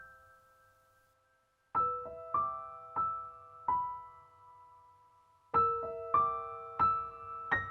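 Background music: a slow, gentle piano melody of single struck notes, each ringing out and fading. After a near-silent pause at the start come four notes about two-thirds of a second apart, a short lull, then four more.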